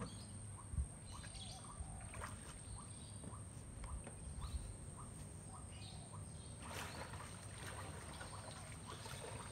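A small bird calling a short rising chirp over and over, about twice a second, through the first half, over a low outdoor rumble. About two-thirds of the way in there is a brief splash of a kayak paddle dipping into calm water.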